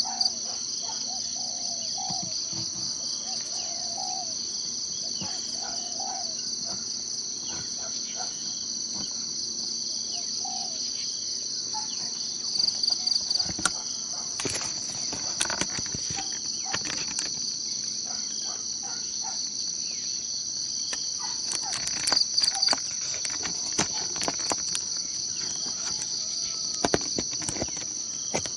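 Steady, shrill chorus of insects, crickets or similar, trilling without a break in the forest. Faint short low bird calls sound in the first few seconds, and a handful of short sharp clicks come in the second half.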